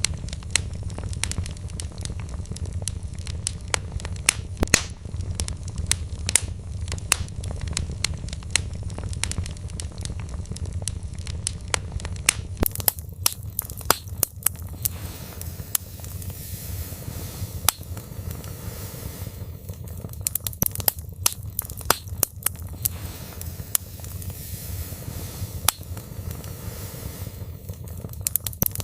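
Wood fire burning in a fireplace: frequent sharp crackles and pops of burning logs, some louder than others, over a steady low rumble of the flames.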